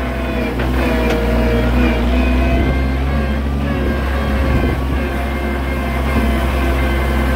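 Oliver 770 tractor's six-cylinder engine running steadily under load at working speed, with a few faint knocks from the machinery.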